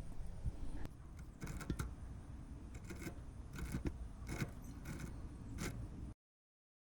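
Light metallic clinks and scrapes, about seven of them, scattered over a low rumble. The sound cuts off abruptly about six seconds in.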